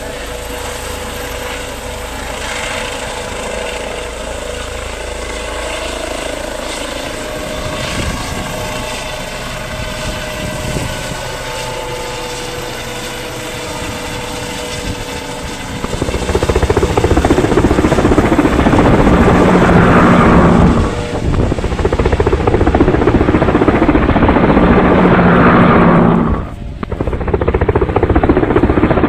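Helicopter engine and rotor running steadily nearby, getting much louder about halfway through, with two brief drops in level.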